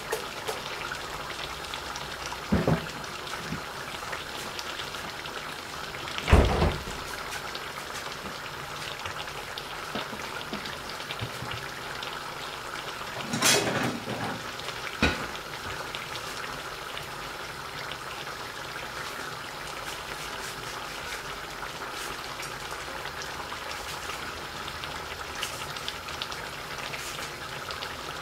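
Duck karahi frying in oil and tomato gravy in a karahi over a gas flame: a steady sizzle with fine crackling. A few louder pops or knocks break through, the loudest about six seconds in.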